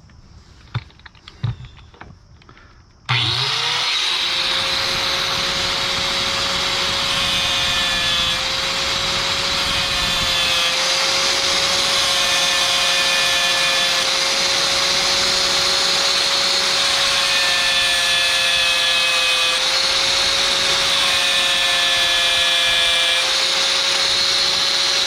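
Cutoff tool spinning up about three seconds in, then running steadily as it grinds a stripped bolt head down to fit a 12 mm socket. Its whine dips slightly now and then as the wheel is pressed into the metal, and the grinding heats the bolt red hot. A few knocks come just before the tool starts.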